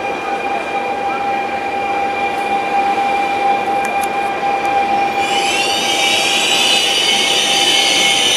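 FS Class E464 electric locomotive and its Intercity coaches rolling into a station with a steady whine, braking to stop. About five seconds in, a loud, high-pitched brake and wheel squeal sets in and holds.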